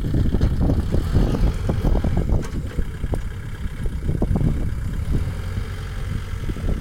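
Kubota farm tractor's diesel engine running steadily while working a paddy field, with frequent short knocks and rattles over the engine note, a little louder in the first couple of seconds.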